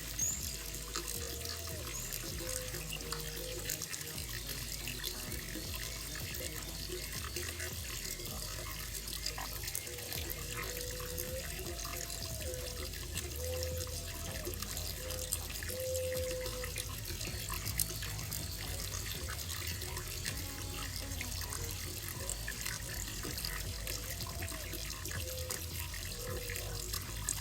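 Water running and splashing steadily into a koi pond.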